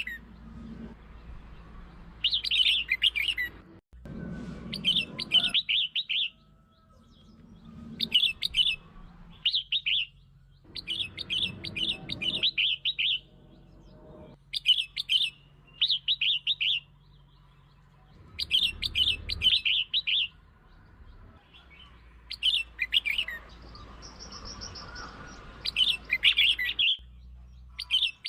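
Red-whiskered bulbul singing: short, bright warbled phrases, each about a second long, repeated every couple of seconds with brief pauses between.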